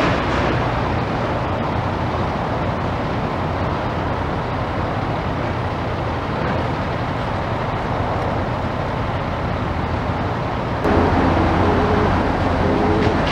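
Steady rumble of motor engines. About eleven seconds in, a louder, nearer engine hum comes in with a wavering pitch.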